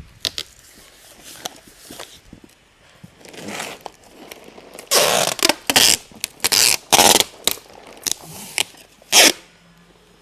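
Packing tape pulled off the roll in short rasping pulls to seal a cardboard box: a few fainter pulls, then a quick run of about a dozen louder ones from about five seconds in.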